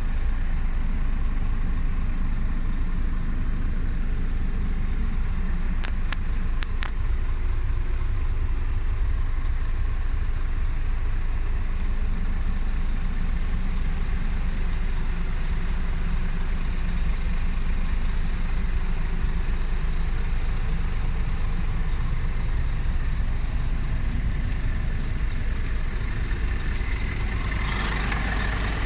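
Heavy truck's diesel engine idling steadily, with a few faint clicks about six seconds in.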